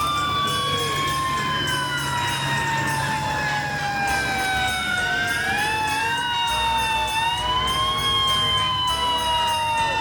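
Emergency vehicle sirens wailing, several at once. Their pitch falls slowly over a few seconds and then climbs again, with the overlapping tones going up and down out of step with one another.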